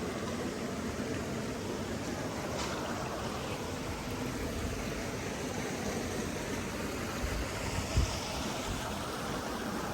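Steady rush of flowing water, like a stream, with a brief low thump about eight seconds in.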